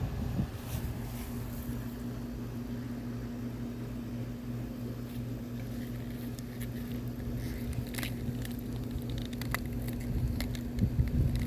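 A steady low mechanical hum over a rumble, with scattered small clicks and crackles, most around eight to ten seconds in.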